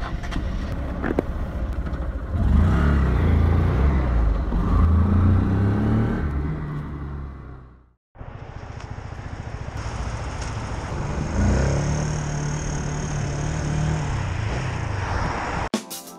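Small 125cc motorcycle engine running and being revved, its pitch rising and falling, in two stretches cut apart by a brief silence about halfway through. Drums come in just before the end.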